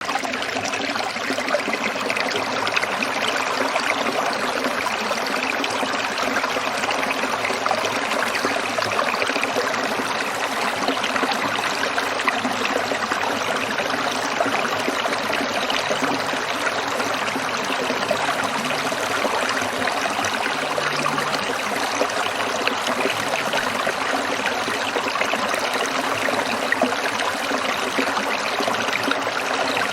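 Small stream trickling over stones, a steady water sound.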